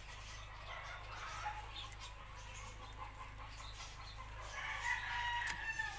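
Birds calling: a string of short calls, then a louder, longer call near the end.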